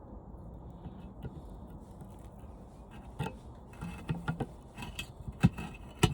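Metal clicks and knocks of a screwdriver prying copper tubing against a metal plate. It starts faint, then comes as scattered clicks from about halfway, with a couple of sharper knocks near the end.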